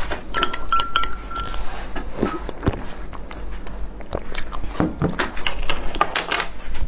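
Close-miked eating sounds of a soft steamed bun: chewing, lip smacks and small wet mouth clicks, with a thin, steady whistling tone lasting about a second near the start.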